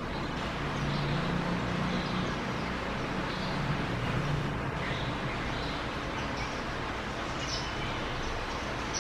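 Steady outdoor background noise with a low engine hum through the first half, and a few faint, short bird chirps scattered throughout.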